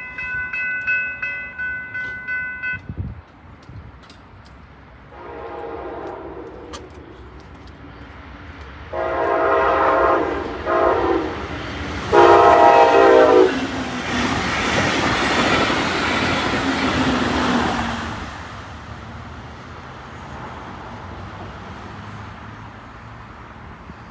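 Brightline passenger train at a road crossing. A crossing bell rings in rapid pulses for the first few seconds. Then the train's horn sounds four blasts, long, long, short, long, which is the standard grade-crossing warning. The loudest blast comes last, and the train then rushes past with a loud wheel-and-wind noise that fades to a low rumble.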